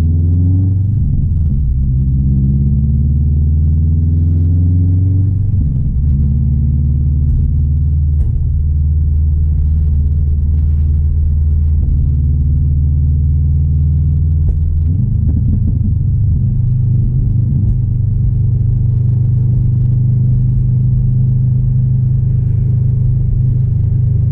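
Subaru WRX STI's turbocharged 2.5-litre flat-four engine pulling the car along: its pitch climbs briefly at the start, then holds fairly steady, with changes in engine speed about six and fifteen seconds in.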